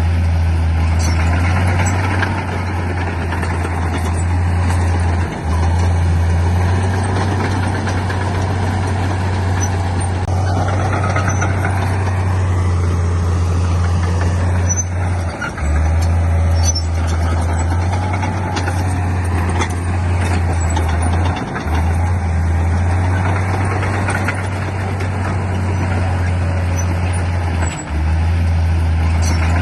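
Heavy diesel earthmoving machinery running steadily under load, with a strong low engine drone and a rough mechanical noise over it. The drone breaks off briefly four times.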